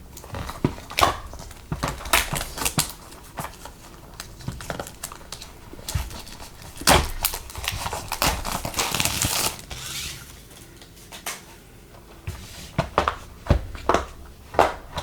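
Packaging of plastic gel nail tips being handled: crinkling and rustling with many sharp clicks and taps, a longer spell of crinkling about eight seconds in, and a few louder clicks near the end.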